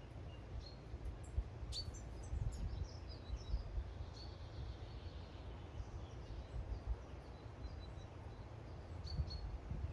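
Small garden songbirds calling, with scattered short high chirps and a busier run of calls about two to three seconds in, over a low rumble.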